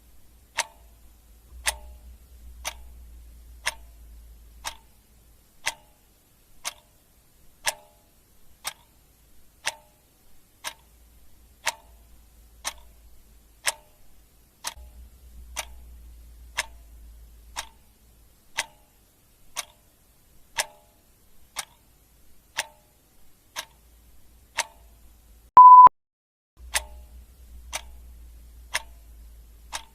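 Clock ticking steadily, about one tick a second. Near the end comes a single short, high beep, the loudest sound.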